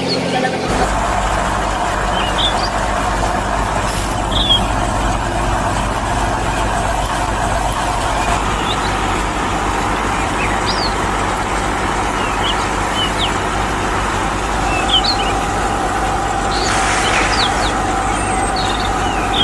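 A machine running steadily, which kicks in about a second in, with short bird chirps scattered throughout.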